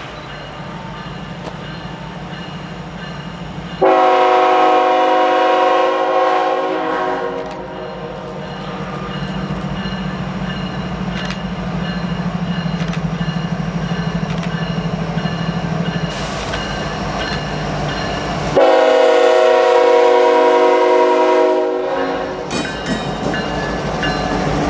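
Norfolk Southern diesel freight locomotives approaching under power, their engines a steady low drone that grows louder, sounding two long horn blasts for the grade crossing, about four and nineteen seconds in. Near the end the lead units pass close, and engine rumble and wheels on the rails take over.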